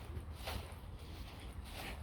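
Footsteps of a person walking at a steady pace on an outdoor path, a soft step about every half second, over a low steady rumble.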